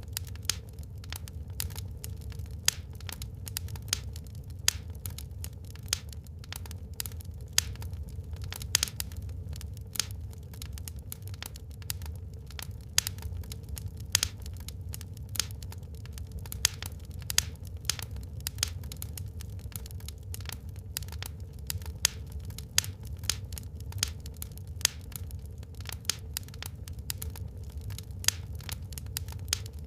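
Wood fire burning in a fireplace, crackling with frequent sharp pops and snaps, a louder pop every second or two, over a steady low rumble.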